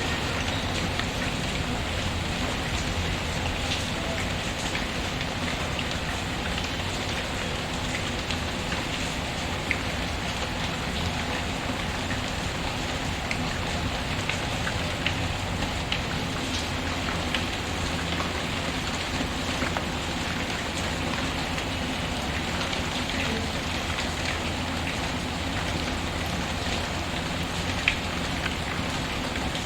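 Steady rain falling, mixed with scattered crackles and pops from a fireplace. The sharpest pop comes near the end.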